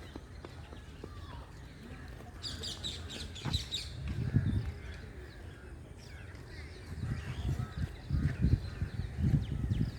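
Birds chirping in the trees, with a quick run of high chirps about three seconds in. Low rumbling thuds come around four seconds in and again through the last few seconds.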